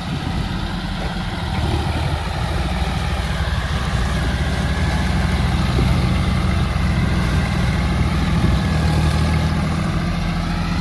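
Tractor engine running hard under load, growing louder about two seconds in, as the tractor struggles stuck in mud.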